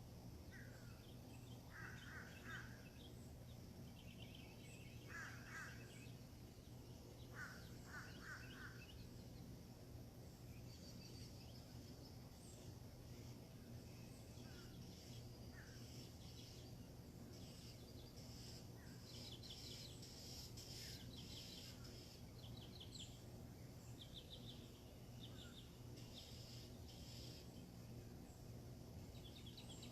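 Faint birds calling and chirping: a few lower calls in the first several seconds, then higher, rapidly repeated notes through the second half, over a steady low hum.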